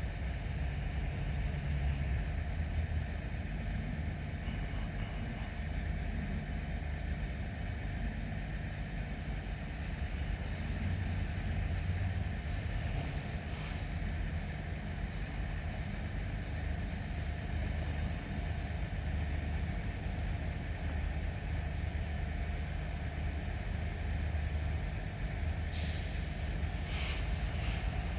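Diesel locomotive engine running with a steady low drone. A few short, sharp, high sounds come about halfway through and again near the end.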